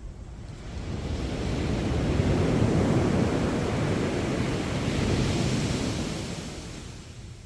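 Sea waves breaking and washing up the shore: the surf swells about a second in, stays strong for several seconds, then dies away near the end.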